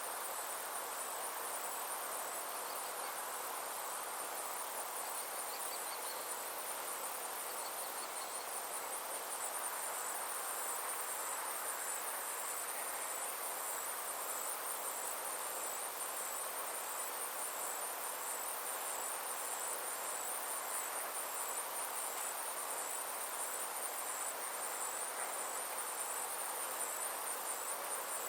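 Summer insects chirring steadily in a rapid, high-pitched pulsing trill, over a constant soft hiss of outdoor ambience. A few faint short chirps come in during the first several seconds.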